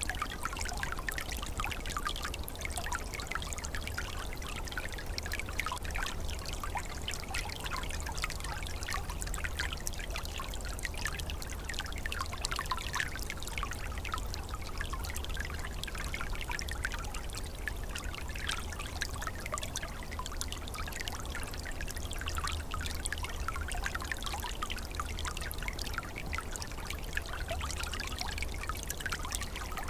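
Small stream trickling and gurgling steadily, a continuous babble of flowing water with a low rumble underneath.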